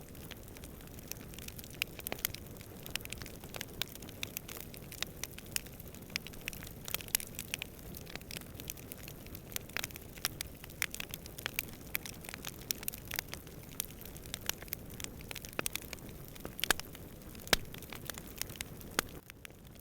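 Wood campfire crackling: irregular sharp pops and snaps, several a second, over a steady low rumble of distant wind. The sound dips briefly quieter just before the end.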